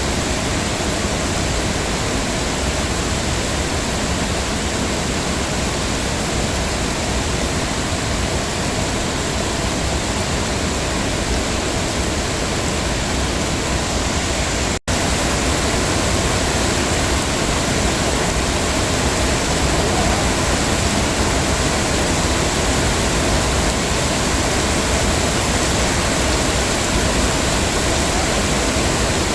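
Heavy rain falling steadily as an even hiss. It cuts out for an instant about halfway through.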